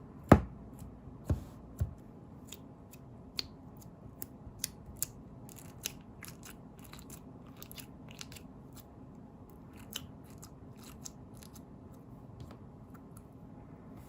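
Slime containers being handled and set down: three sharp knocks in the first two seconds, then scattered small clicks and crackles.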